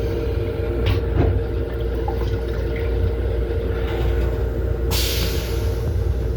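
Metro-North M7 electric railcar running, heard inside the car: a steady low rumble with a steady hum and a few light clicks near one second in. About five seconds in, a loud hiss starts and keeps going.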